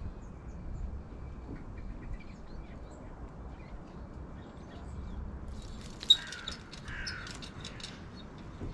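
Birds calling over a low steady background rumble: two harsh calls, about six and seven seconds in, with quick high chirps around them.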